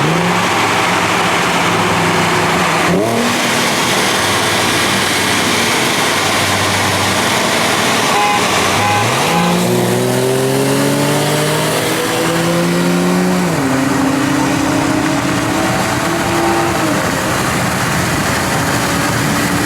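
Car engine running loud and steady, then revving hard under acceleration: from about halfway its pitch climbs and falls back twice, as in a race pull through the gears.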